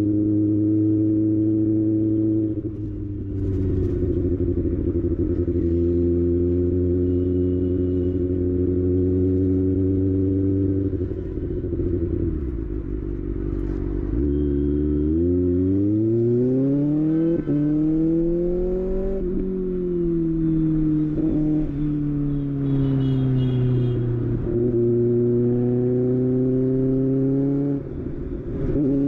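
Kawasaki ZX6R's inline-four engine running steadily, then climbing smoothly in pitch for about five seconds as it is revved and sinking back over the next five before holding steady again.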